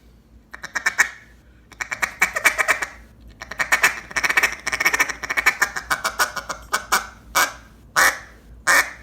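Black River Tyrant single-reed duck call blown through its low, loose bottom end: quick runs of rapid, rolling notes, then three separate single quacks near the end.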